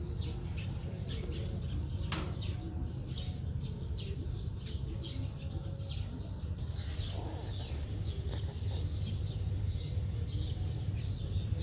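Small birds chirping in quick, repeated short notes over a steady low rumble, with a single sharp click about two seconds in.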